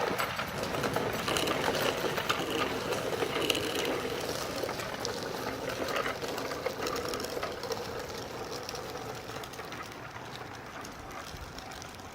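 Bicycle clicking and rattling rapidly as it rolls along, fading gradually as it moves away.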